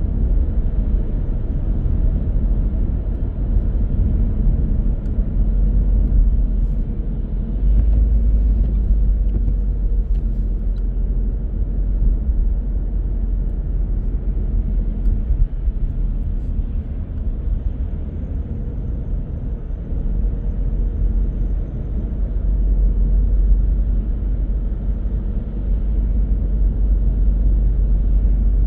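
A car driving along the road: a steady low rumble of tyres on the road surface and engine, swelling and easing slightly as it goes.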